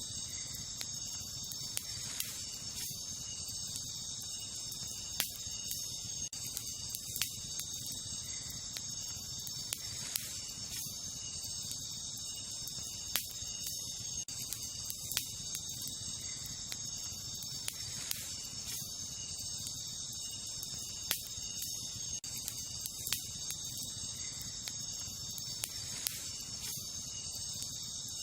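Wood campfire crackling, with sharp pops every second or two, over a steady high-pitched chorus of crickets.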